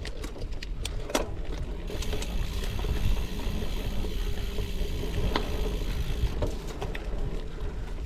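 Gravel bike rolling along a dirt and gravel forest trail: a steady rumble of tyres on gravel, with scattered clicks and knocks from the bike rattling. A faint steady whine runs through the middle few seconds.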